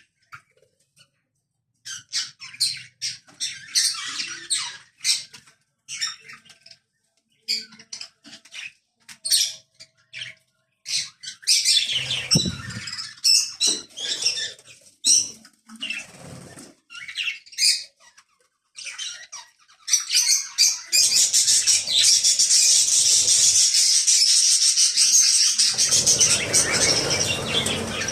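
A flock of birds chirping and squawking: scattered short high calls at first, building about twenty seconds in to a dense, continuous chorus.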